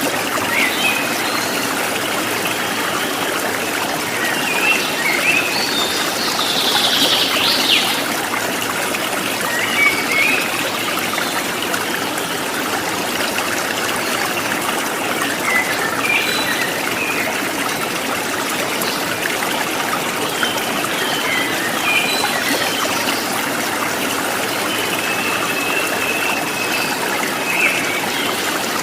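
Steady running water of a stream trickling, with small birds chirping now and then over it; a brighter flurry of calls comes about seven seconds in.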